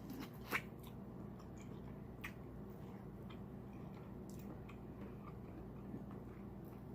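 A person chewing and smacking on seafood up close, with scattered small wet clicks, the sharpest about half a second in.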